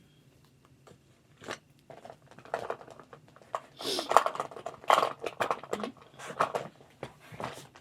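A run of short rustles, crinkles and clicks as small objects are handled, coming thickest from about two and a half seconds in.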